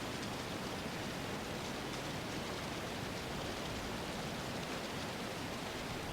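Steady, even hiss of an outdoor ambience bed, with no distinct events.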